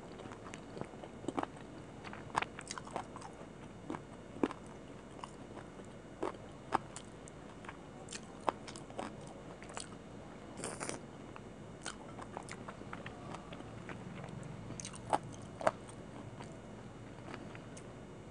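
Close-miked chewing and biting of chicken meat on the bone, with irregular sharp crunching clicks as bone and cartilage are bitten and sucked.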